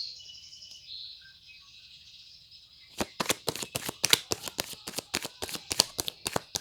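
Tarot cards being shuffled by hand: a rapid, irregular run of sharp clicks that starts about three seconds in, after a faint high-pitched hiss.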